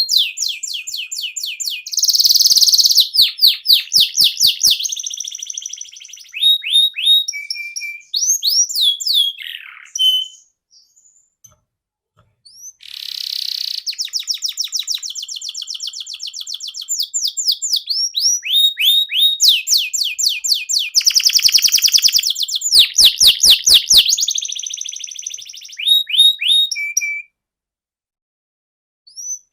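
Domestic canary singing long phrases of fast rolling trills and rapidly repeated high notes, with a few slurred whistles between them. The song breaks off twice, once near the middle and once near the end.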